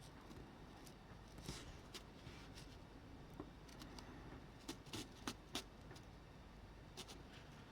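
Faint, scattered light clicks and taps of small parts being handled on a workbench, with a quick run of several clicks about five seconds in.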